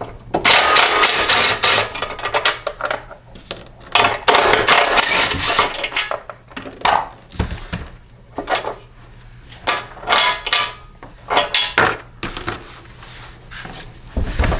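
Loose metal mower parts and hardware clinking and clattering as they are handled and set down, in repeated irregular bursts.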